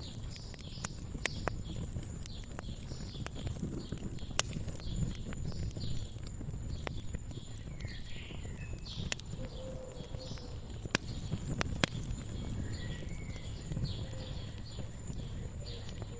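Wood fire crackling, with irregular sharp pops over a low steady rumble, while small birds chirp and trill throughout.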